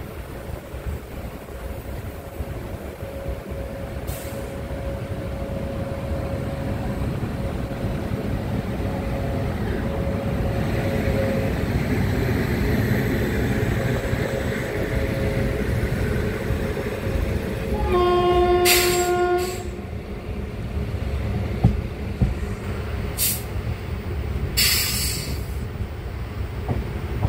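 Indian Railways express train running, heard from inside a coach: a steady rumble of wheels on the rails that grows slowly louder as the train gathers speed out of the station. About eighteen seconds in, a locomotive horn sounds once for about a second and a half. A few short, sharp noises come near the end.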